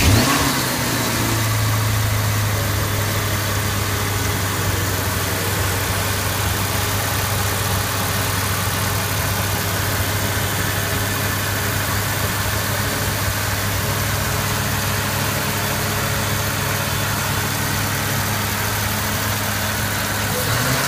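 Ford Shelby GT500's supercharged 5.4-litre V8 running at a steady idle, after a brief flare right at the start.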